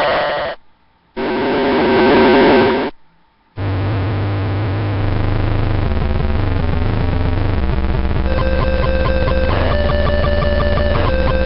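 Degrader Shifter noise pedal's harsh square-wave fuzz, cut off abruptly twice, then a sustained buzzing drone whose stacked octave-divided notes step to new pitches every second or two.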